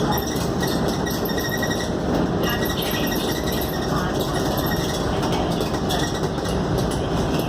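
Scania K280UD double-decker bus driving along, heard from inside the passenger cabin: a steady mix of engine and road noise with no distinct events.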